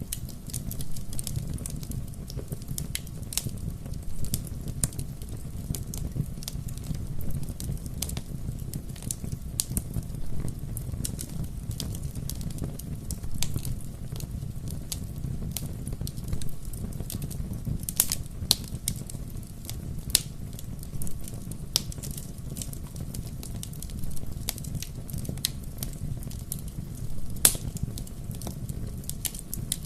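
Wood fire burning with a steady low rumble and frequent irregular sharp crackles and pops, a few louder snaps among them.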